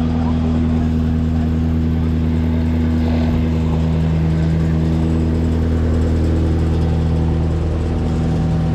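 Car engine idling steadily, an even drone that neither rises nor falls.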